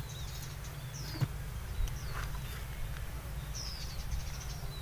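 Small birds giving a few short, falling chirps over a steady low rumble of outdoor background noise, with one faint tap a little after a second in.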